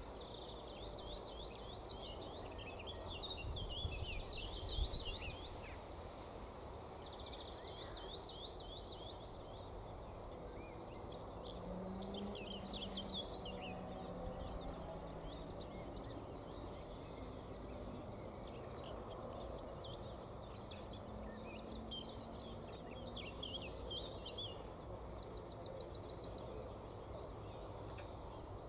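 Outdoor ambience: small birds twittering in repeated bursts of short high chirps, with a fast even trill near the end, over a steady low background rumble.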